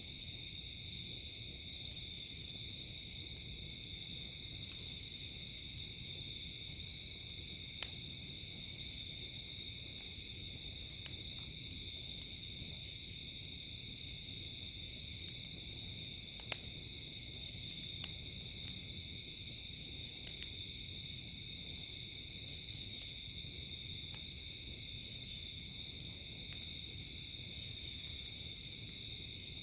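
A campfire crackling with a handful of sharp pops, the loudest about halfway through, over a steady, high-pitched chorus of insects that pulses every few seconds.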